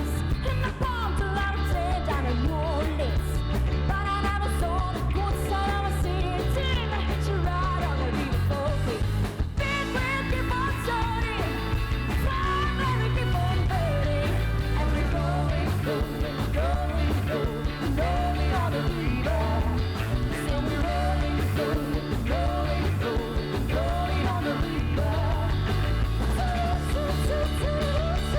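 Live rock band playing at full volume, with electric guitar, bass, drums and singing.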